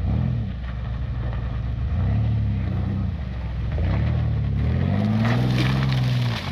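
Off-road vehicle engine revving in repeated surges, its pitch rising and falling three or four times, with the longest and highest rev near the end, which then drops off sharply.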